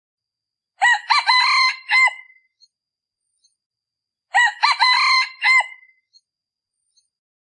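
Male decoy junglefowl rooster crowing twice, each crow about one and a half seconds long, the two about three and a half seconds apart. This is the call used to lure wild red junglefowl cocks in the cold season.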